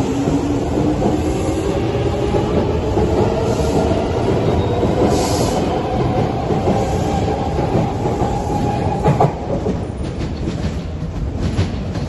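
Kawasaki Nippon Sharyo C751B metro train pulling away, its motors whining in a pitch that climbs steadily as it accelerates. About nine seconds in the whine cuts off with a knock, and wheel clicks on the track follow as the train moves off.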